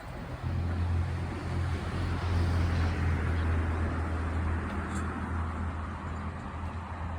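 Steady low engine drone under a wash of rushing noise that swells a couple of seconds in and slowly eases off, like a motor passing by.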